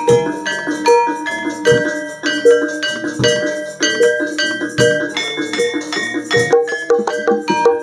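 Javanese gamelan ensemble playing: bronze metallophones strike a quick, steady run of ringing notes, with a low drum stroke about every second and a half.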